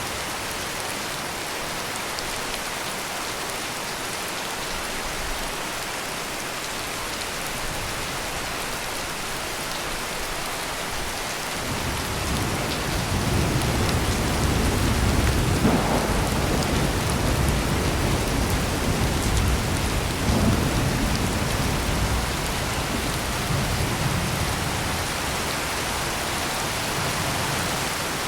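Heavy, steady rain pouring down. About twelve seconds in, a long low roll of thunder builds, peaks within a few seconds, and rumbles on more faintly until near the end.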